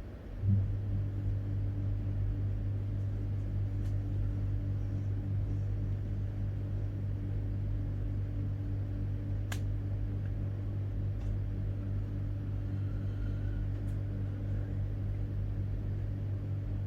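A steady low machine hum that switches on abruptly about half a second in, with one sharp click near the middle.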